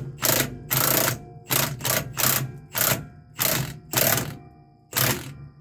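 Impact wrench run in about ten short blips, turning the adjusting nut of a trailer brake slack adjuster to take up the brake.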